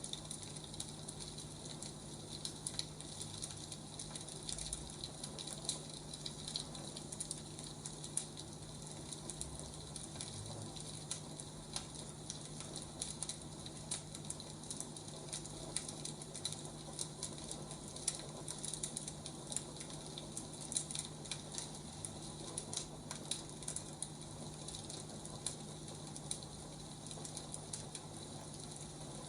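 Wood fire crackling, with frequent small irregular pops over a steady hiss and a faint low hum.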